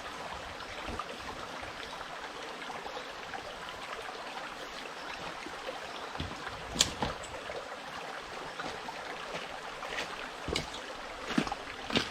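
Forest stream running steadily, with a few sharp clicks or knocks on top, the loudest about seven seconds in and more near the end.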